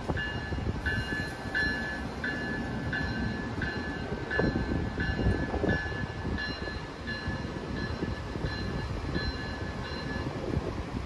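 Amtrak passenger train rolling slowly past, a low rumble of wheels on track, with a bell dinging steadily about once every 0.7 seconds until near the end.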